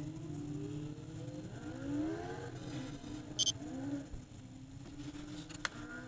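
Car engines accelerating along the road, their pitch rising several times, over a steady low engine hum. A brief high chirp sounds about three and a half seconds in, and a sharp click near the end.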